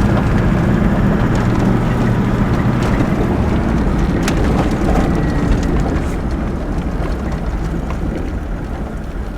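Toyota Land Cruiser 79 four-wheel drive being driven along a farm track: a steady engine drone and road noise, easing off gradually over the second half.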